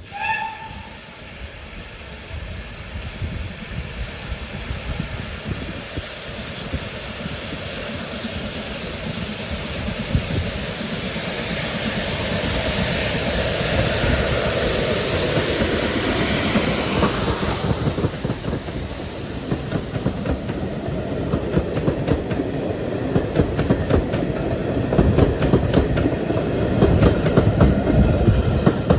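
Train passing on a heritage railway: a short high tone at the very start, then a rising hiss that swells and fades in the middle, followed by a fast run of wheel clicks over rail joints with a low rumble, loudest near the end.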